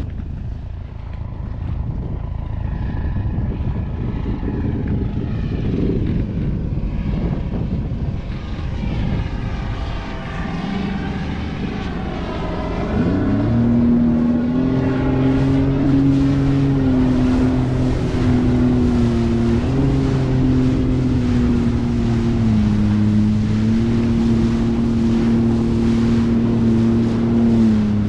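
Jet ski engine running, revving up about halfway through and then holding a steady drone at speed over the water.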